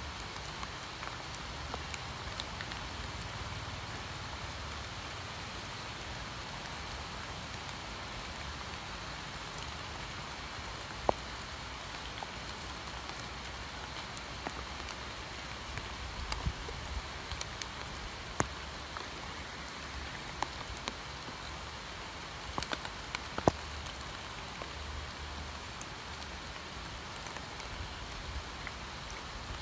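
Steady rain falling on pond water and surrounding foliage, an even hiss with a few louder single drops striking sharply, the strongest about 11, 18 and 23 seconds in.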